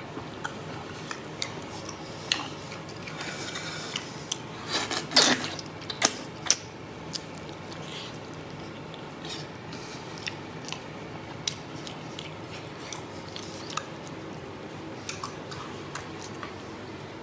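A person eating braised spicy beef hoof tendon by hand: wet chewing and mouth noises heard as scattered small clicks, with a louder, longer burst about five seconds in.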